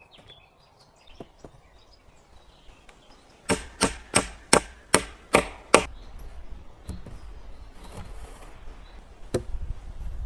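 Wood being chopped: seven quick, sharp strikes in a row, about three a second, then a single knock near the end.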